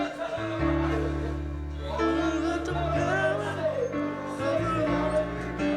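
Live church music during an altar call: held bass notes and chords changing every second or two, with guitar and a voice singing over them.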